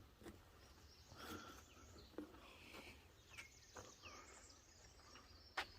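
Near silence in swampy woods: faint outdoor ambience with scattered faint bird chirps and a few light clicks, a sharper click near the end.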